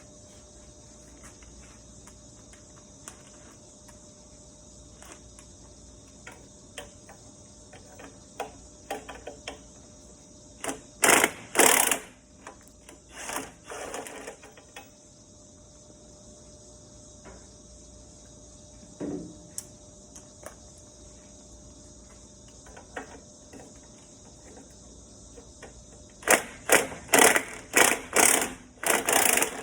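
Hand tools working on exhaust hardware: scattered clicks, then two runs of short, loud rasping strokes at about two a second, the first about eleven seconds in and the second near the end.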